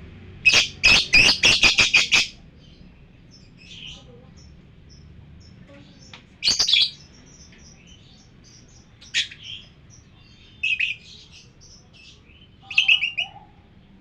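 Lovebirds chirping: a quick run of about eight sharp shrill chirps at the start, then short bursts of calls every few seconds over faint high twittering.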